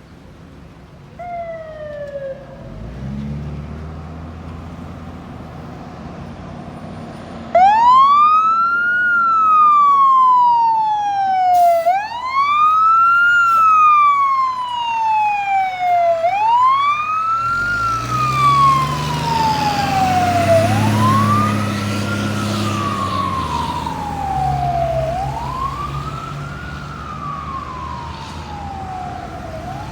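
Fire truck siren in wail mode, starting suddenly about seven seconds in and repeatedly rising fast and falling slowly, about one cycle every four and a half seconds. A short falling siren chirp comes about a second in, and the truck's engine rumbles underneath.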